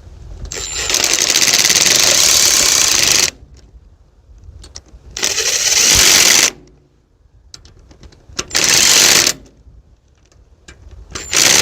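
Power screwdriver driving screws in short bursts: a long run, two shorter ones and a brief blip at the end, each a rapid rattling hammer.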